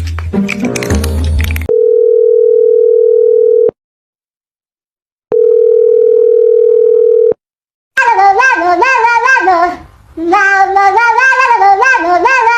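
Music cuts off and two long, steady telephone-style beeps sound, each about two seconds, with a silent gap between. Then, about eight seconds in, a high voice with fast, wavering pitch takes over.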